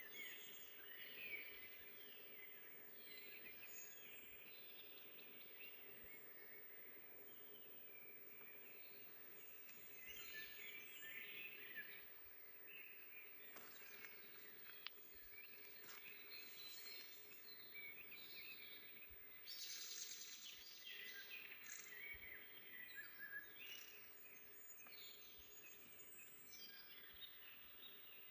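Several songbirds singing and chirping at once, faint and overlapping, with short trills and high chirps that come in livelier bursts now and then.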